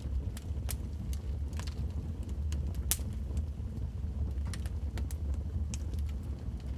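Wood fire in a fireplace crackling: irregular sharp pops over a steady low rumble, the loudest pop about three seconds in.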